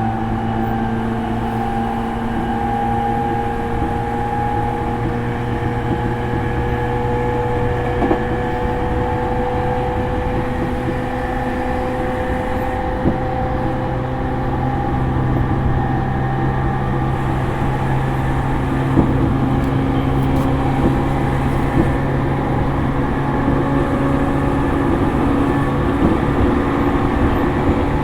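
Interior running sound of a JR East E231-series electric train's motor car at speed: steady rumble with a traction-motor and gear hum whose pitch drifts slowly, and occasional sharp clicks from the wheels on the rails.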